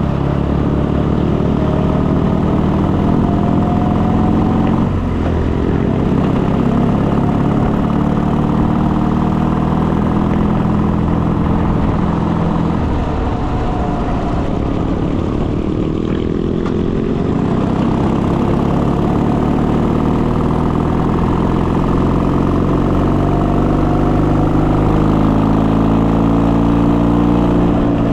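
Motorcycle engine running under way, its pitch rising and falling as the bike speeds up and slows, with a drop in revs about halfway through.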